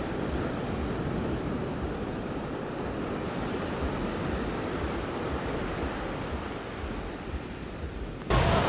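Ocean surf washing onto a sandy beach, a steady rushing noise of breaking waves. Near the end it cuts abruptly to a louder, fuller rush of noise.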